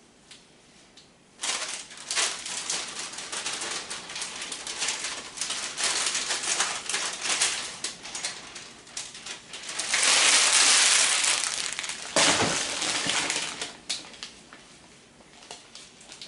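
A utensil stirring and folding through food in a pan, an irregular run of scraping and clicking that starts about a second and a half in, grows into a steady rush for a couple of seconds, and ends with a knock and a fade near the end.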